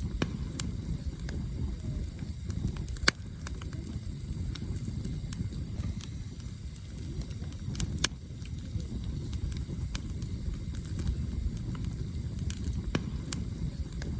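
Campfire burning, a steady low roar of the flames with scattered sharp cracks and pops from the firewood, the loudest about three seconds in and about eight seconds in.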